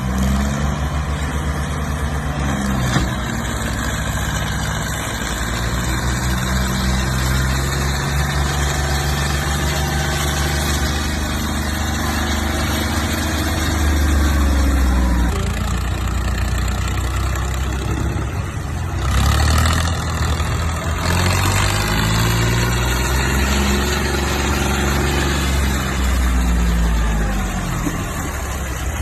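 Diesel tractor engine working under load, hauling a fully loaded trolley. Its pitch rises and falls several times as it revs up and eases off.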